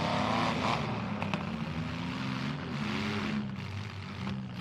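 Demolition derby trucks' and vans' engines revving and easing off, their pitch rising and falling, with a couple of sharp knocks a little over a second in.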